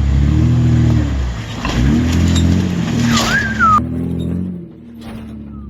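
Off-road 4x4's engine revving in surges under load as it drives forward over rocks, with a brief high-pitched sliding sound about three seconds in. The engine eases off about four and a half seconds in.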